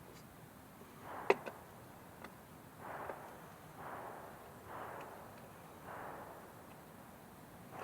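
Hand saw cutting wood with slow strokes, a rasping swell about once a second, after a single sharp knock about a second in, as proud pieces are trimmed to height.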